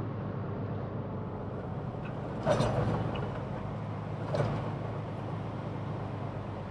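Steady engine and road rumble heard inside a semi-truck cab while driving, with two short, sharp louder sounds, the first about two and a half seconds in and the second near the middle.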